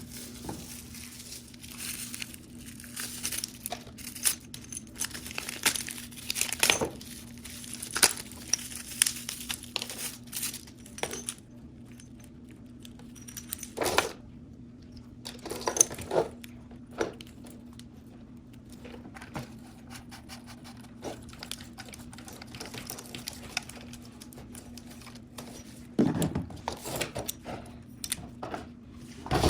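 Handling noise from an unboxed plastic shower head and its packaging: scattered clicks, taps and rustling or crinkling, with a steady low hum underneath.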